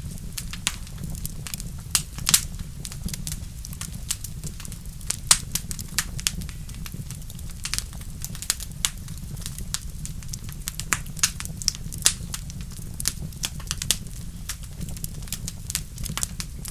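Wood fire in a fireplace crackling, with irregular sharp pops, a few louder ones, over a low steady rumble.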